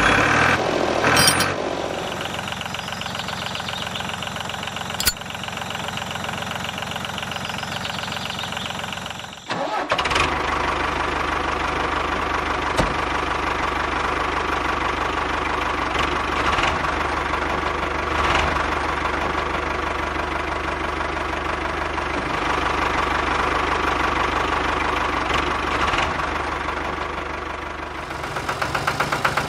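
Tractor engine idling steadily with an even pulse. It dips briefly about nine and a half seconds in, then runs louder and fuller.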